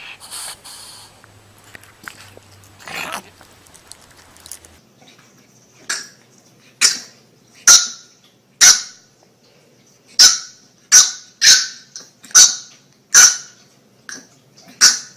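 Dog barking: a string of about a dozen sharp, high barks less than a second apart, starting about halfway in, after a few softer sounds.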